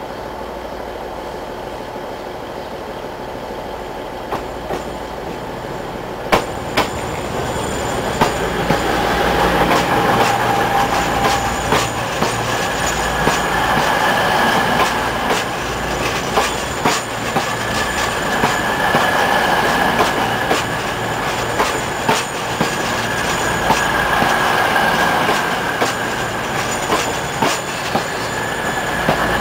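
East Midlands Trains Class 222 Meridian diesel multiple unit (222-005) approaching and then running past close by, getting louder over the first six seconds or so. Its wheels click sharply over rail joints every second or so, under a steady rumble with a high steady squeal on top.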